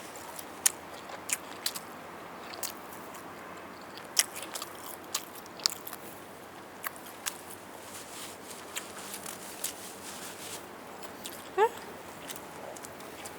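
Close-miked chewing and biting of roast chicken, with irregular sharp mouth clicks. A short rising vocal sound near the end.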